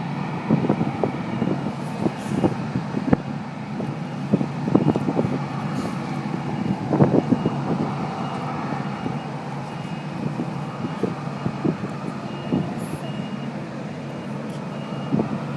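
Steady low hum of an airliner and airport ground equipment while the plane is still parked, with a faint high beep repeating about twice a second, like a ground vehicle's reversing alarm. Scattered light clicks and knocks run through it.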